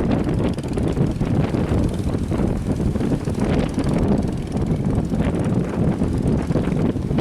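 Boat engines running, a steady droning rumble mixed with strong wind buffeting the microphone.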